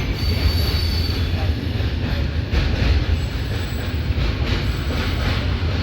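Heavy freight train rolling past on the rails: a steady, loud rumble of wheels and wagons, with faint high wheel squeals now and then.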